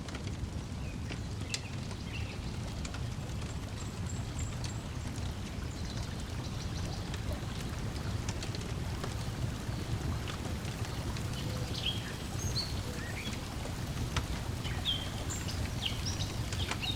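Lakeside ambience: a steady low wash of lapping water, with a wood fire crackling in scattered small pops and birds chirping briefly, the chirps coming more often in the last few seconds.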